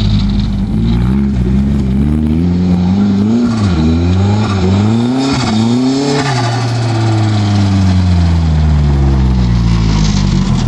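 Pro-Lite off-road race truck's engine revving up in several surges with brief dips, then its pitch falling steadily as it eases off.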